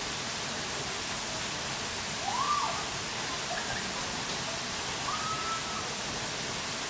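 Waterfall rushing steadily. Two brief pitched calls sound over it, about two seconds in and again about five seconds in.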